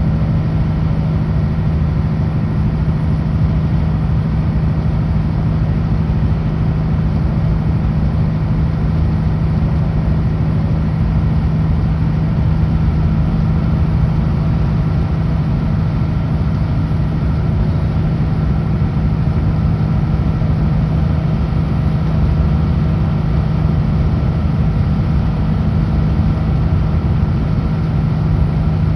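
Kenworth W900L semi truck's diesel engine running steadily at highway speed: a constant low drone under a steady rushing noise.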